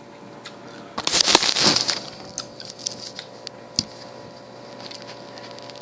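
A loud rustle lasting about a second, then scattered small clicks and taps.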